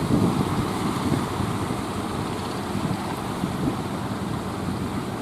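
Strong wind buffeting the microphone aboard a motor ship at sea, over a steady low rumble of the ship underway.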